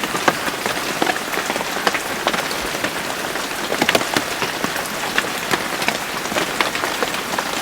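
Steady rain falling, a constant hiss with many distinct drops ticking sharply on a hard surface.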